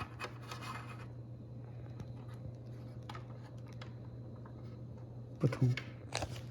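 Meter test probes scratching and clicking against wire terminals during a continuity check, over a steady low hum.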